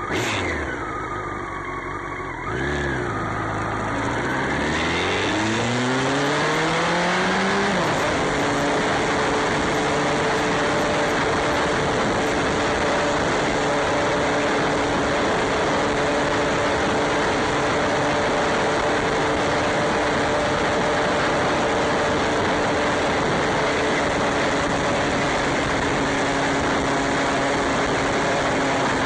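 Motorcycle engine blipped twice, then accelerating with a rising pitch for about five seconds, then holding a steady speed under a loud, even rushing noise.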